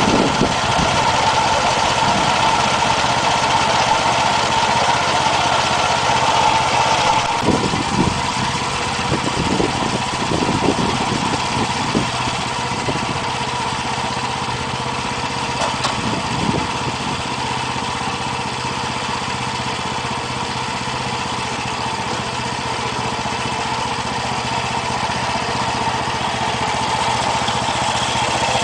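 Gasoline engine of a Boaz mini combine running steadily. About seven seconds in, a higher whine drops away and a few knocks follow.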